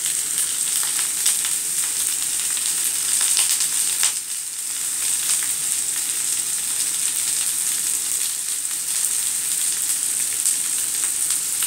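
Crushed boiled potatoes and sliced red onion sizzling in hot oil in a frying pan: a steady hiss with many small crackles, dipping briefly about four seconds in.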